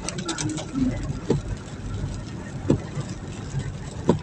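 Hearse running on the road, a steady low rumble with a short low knock about every second and a half.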